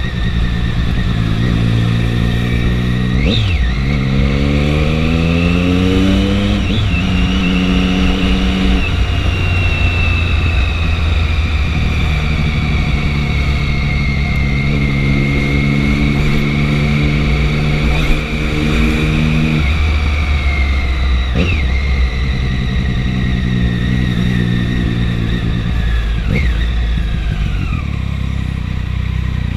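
Triumph 675 three-cylinder motorcycle engine under way: it rises in pitch as the bike accelerates a few seconds in, drops briefly at several gear changes, and holds steady revs in between.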